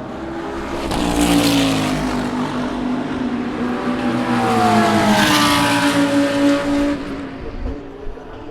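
Race cars passing at speed on the track, two in turn. The first goes by about a second in with its engine note sliding down. The second comes through around the middle with its engine note climbing and then holding before it fades away.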